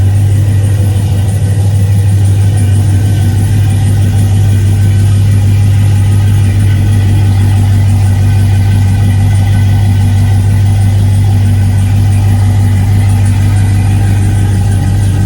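Supercharged 6.2-litre V8 of a 2011 Cadillac CTS-V idling steadily, heard through a newly fitted exhaust with two pipes merging into a single Flowmaster muffler.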